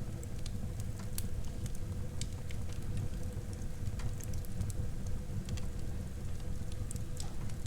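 Wood fire burning in a fireplace: a steady low rumble of flame with frequent small, sharp crackles and pops scattered irregularly throughout.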